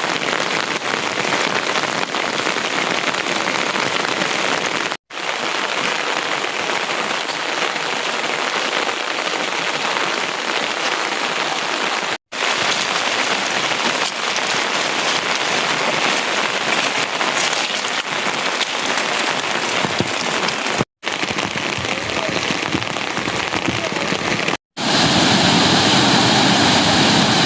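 Steady rain falling, a continuous even hiss, broken four times by brief silent gaps. After the last gap, about 25 seconds in, the noise becomes louder and deeper.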